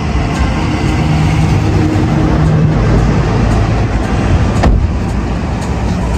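A car running, with a steady low engine and road noise and a single sharp knock about four and a half seconds in.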